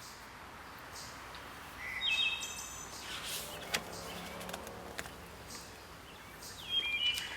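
Birds chirping in the background: short, high calls about two seconds in and again near the end, over a low hiss, with a few faint clicks in between.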